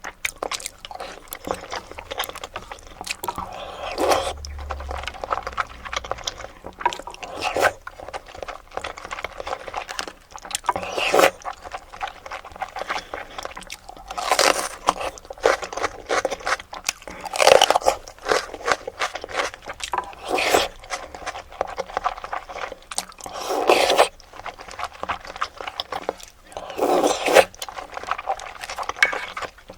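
Close-miked eating sounds of a person chewing soft-boiled eggs: wet chewing and mouth noises in irregular bursts, with a few louder bites.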